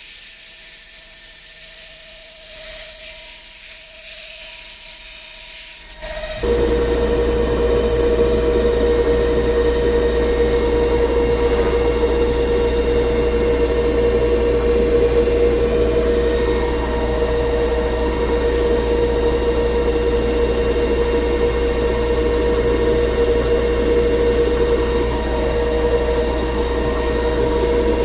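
Hissing, then a power tool's electric motor starts about six seconds in and runs steadily with a constant whine over a low hum.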